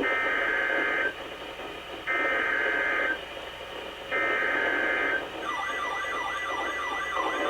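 Emergency Alert System SAME header: three one-second bursts of two-tone data warble, each followed by a second's pause, marking the start of a new alert. About five and a half seconds in, the attention signal starts: a steady high tone with a siren-like tone sweeping up and down over it.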